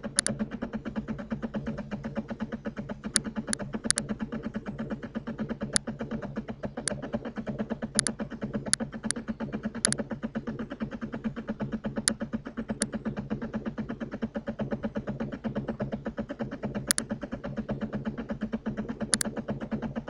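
A dozen or more sharp, short computer mouse clicks at irregular intervals, over a steady low buzzing hum.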